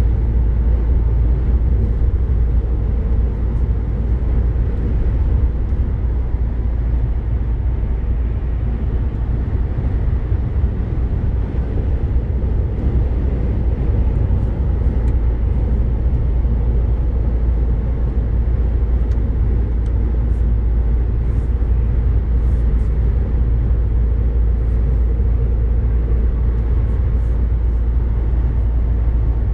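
MAN truck driving at steady speed on the autobahn: a constant deep rumble of engine and road noise that does not change.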